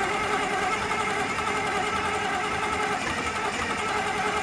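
Large Allis-Chalmers stationary diesel engine running steadily: a deep, pulsing hum with a fast, even mechanical clatter.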